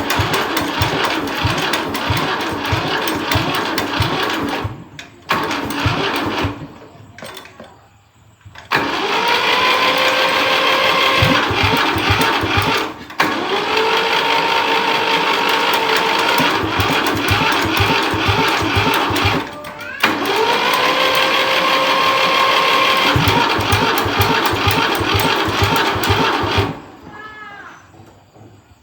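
Rebuilt tractor engine running, with an even, rapid firing beat. Three times its pitch rises quickly as it revs up, then holds steady. It drops away near the end.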